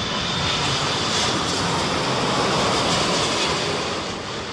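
Jet airliner's engines rushing past on its landing approach, with a faint high whine; the noise swells to a peak midway and eases off near the end.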